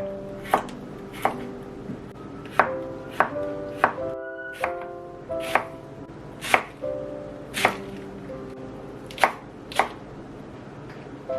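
Kitchen knife chopping on a cutting board: about a dozen single cuts at an unhurried, uneven pace, over background music.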